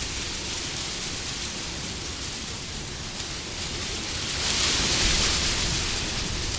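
Steady rushing wind, swelling into a stronger gust about four seconds in and easing off near the end.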